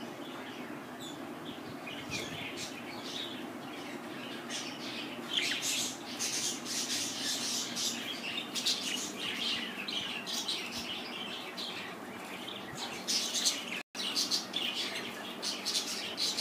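Pet budgerigars chirping and chattering: a stream of short, high chirps that gets busier about five seconds in.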